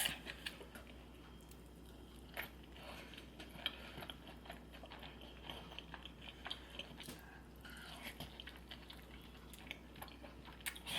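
Close-miked eating of a seafood boil: quiet chewing and wet mouth sounds, scattered with small crunches and clicks.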